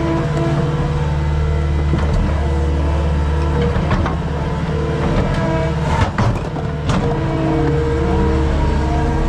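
Skid steer engine running steadily at working revs while grading, with a couple of sharp knocks past the middle.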